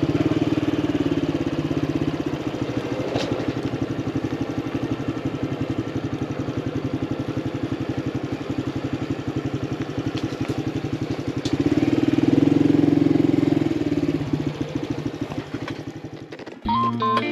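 Honda CT125 Hunter Cub's single-cylinder engine running with a steady, fast pulsing. It gets louder for a couple of seconds about twelve seconds in, then fades away near the end, where guitar music comes in.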